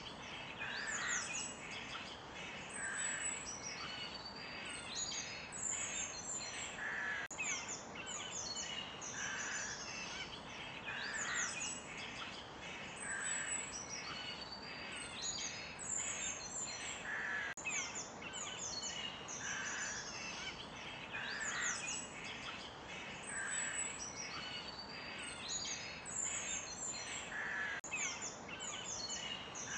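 Forest birds singing and calling: many overlapping chirps and quick sweeping notes, with a lower call repeating about every two seconds, over a steady background hiss.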